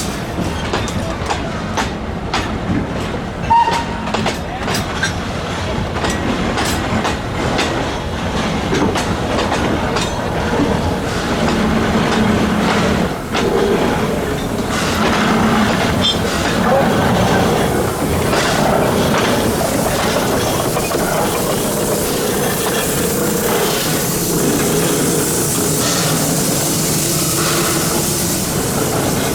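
The SL21 28-ton Class B Shay geared steam locomotive, with vertical cylinders, running on 762 mm narrow-gauge track. Sharp irregular clicks and clanks come first, then a steadier running noise, with a hiss that builds toward the end.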